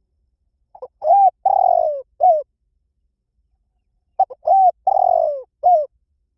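Spotted dove cooing: two phrases a few seconds apart, each a quick short note, a coo, a longer falling coo and a closing short coo.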